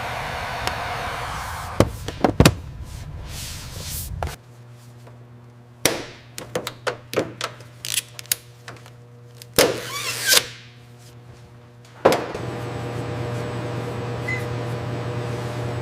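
Scattered thunks and knocks over a steady low hum, several in quick runs. The background noise drops off abruptly about four seconds in and comes back with a thud near the twelfth second.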